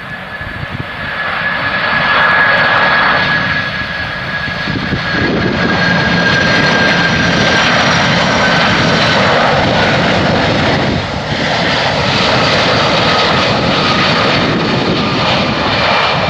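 Boeing 747-400 freighter's four jet engines on final approach, a loud rushing roar with a high whine that slowly falls in pitch as the jet passes. The sound swells about two seconds in and stays loud.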